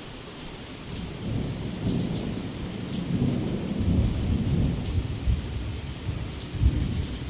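Heavy rain falling steadily with a long rolling rumble of thunder that builds about a second in, swells in the middle and again near the end. A few sharp drip taps sound above the hiss of the rain.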